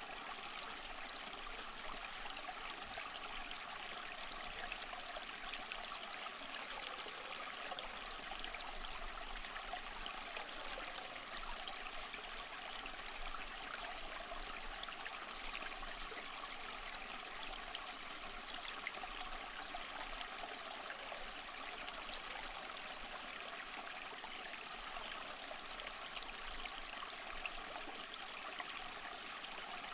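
A stream of water flowing and trickling steadily, with a fine splashing texture and no breaks.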